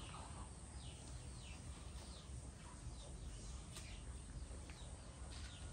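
Small birds chirping faintly: many short, high, falling chirps scattered throughout, over a low steady rumble.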